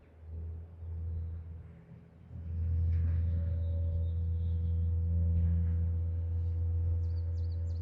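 Airliner engines rumbling steadily with a low hum, swelling about two and a half seconds in and holding loud.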